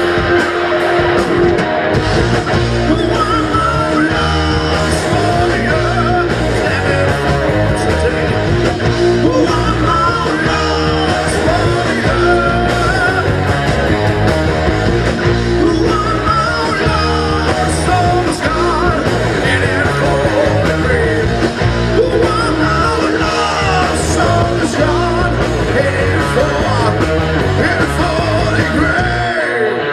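A rock band playing loudly and continuously live: guitars, bass and drums, with singing over the top.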